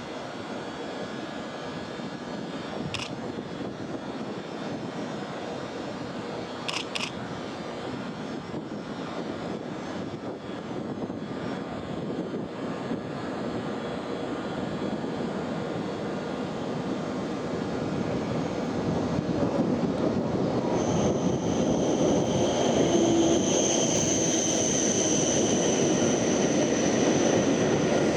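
Shinkansen train running noise growing steadily louder as the train comes closer, with a high steady whine joining about two-thirds of the way through. A few short clicks sound about three and seven seconds in.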